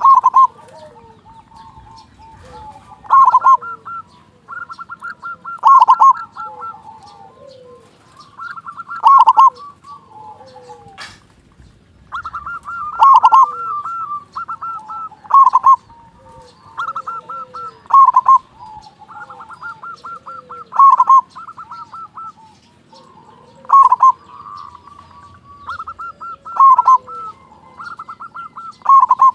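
Zebra dove (perkutut) singing its rhythmic cooing song: each phrase is a quick run of notes ending in a loud ringing coo, and the phrases come about every three seconds. Fainter, lower cooing notes fill the gaps between phrases.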